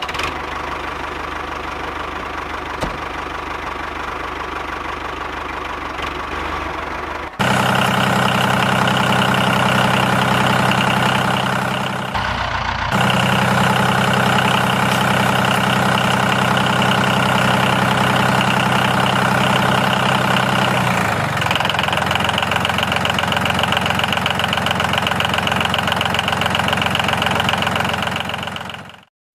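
Homemade mini tractor's engine running steadily. It gets louder about seven seconds in, dips briefly around twelve seconds and changes tone a little past twenty seconds.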